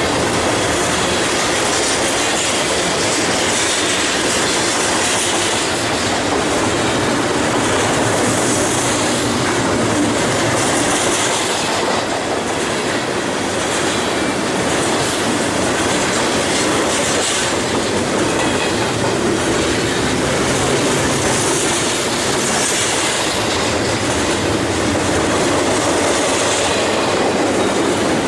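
BNSF double-stack container freight train rolling past: steady, loud wheel-on-rail noise with the clatter of wheels over the rails and faint squeal now and then.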